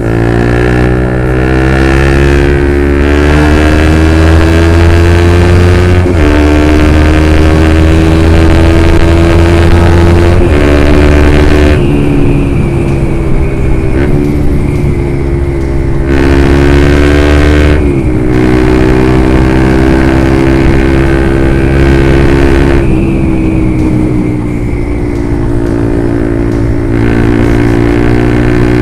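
Honda CB150R's single-cylinder engine through a Lone Ride aftermarket exhaust, ridden on the road. The engine note climbs steadily, then drops back several times, as with gear changes.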